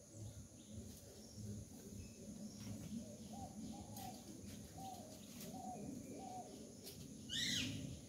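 Birds calling outdoors: a run of short, low, soft notes through the middle, then one loud, sharp, higher call with a quick sweep near the end, over a steady high hiss.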